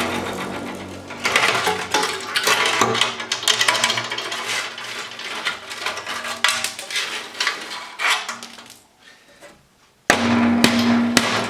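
Irregular clanking and knocking of metal on metal, dying away about nine seconds in. About a second later it cuts to a louder run of evenly spaced strikes over a steady hum.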